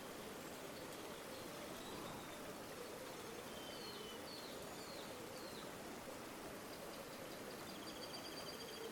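A river flowing steadily, with faint bird calls over it: a few short chirps around the middle and a rapid trill near the end.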